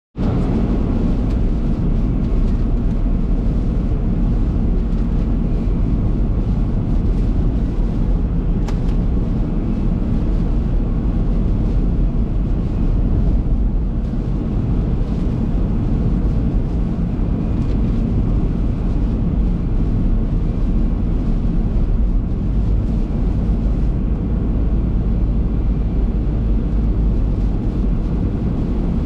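Car driving, heard from inside the cabin through a dashboard camera's microphone: a steady low rumble of road and engine noise.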